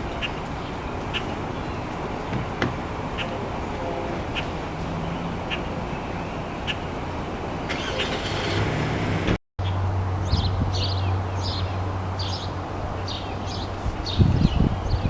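Small birds chirping: single short chirps about once a second over steady outdoor background noise, then after a cut a quicker run of repeated chirps over a steady low hum, with a few low knocks near the end.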